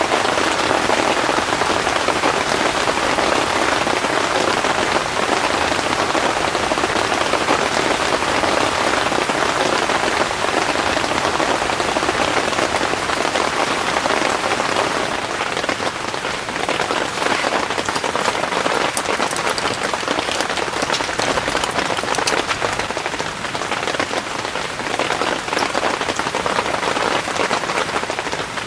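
Heavy rain falling steadily. From about halfway through, separate drop strikes stand out more sharply in the downpour.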